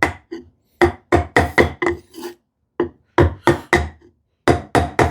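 Mallet strikes on a chisel driving it into sapele, in quick runs of about four or five sharp knocks a second with short pauses between runs.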